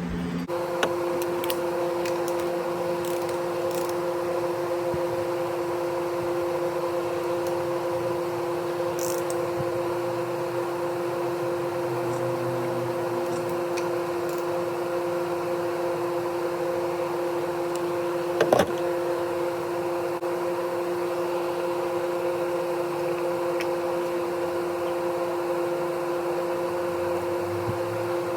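A steady electric machine hum holding two even tones, with one sharp click about 18 seconds in.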